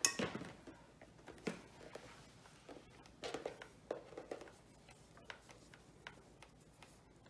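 Hands tying a macrame cord onto a bird feeder: a sharp rustle and knock at the start, a click about a second and a half in, a cluster of rustling around three to four seconds in, then scattered faint ticks.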